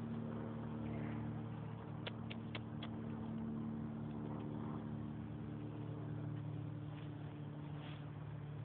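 Steady low mechanical hum, like an engine running at idle, with four short clicks about two seconds in.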